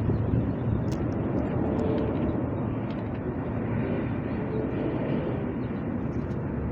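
Steady low rumble of distant city vehicle noise, with no single sound standing out.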